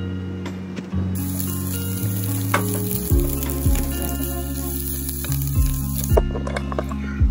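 Food sizzling in a hot pan, starting about a second in and stopping near the end, over lo-fi background music with a steady beat.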